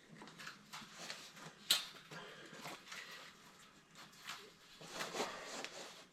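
Irregular clicks, knocks and rustling of copper pipe, fittings and tools being handled, with one sharp click a little under two seconds in.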